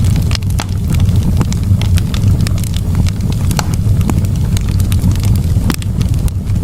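Campfire burning, with frequent sharp, irregular crackles and pops from the wood over a steady low rumble.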